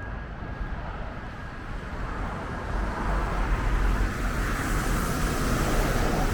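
Road traffic: a vehicle passing close by, its tyre and engine noise swelling over a few seconds to a peak near the end.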